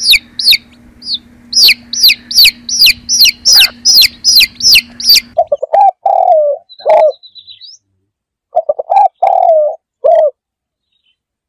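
Chicken chicks peeping rapidly, with high, falling chirps about three a second. About five seconds in they give way to feral pigeons cooing in low, repeated calls, which stop about ten seconds in.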